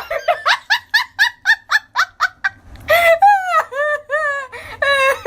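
High-pitched laughter: a rapid run of short giggles, then longer, drawn-out laughs about three seconds in.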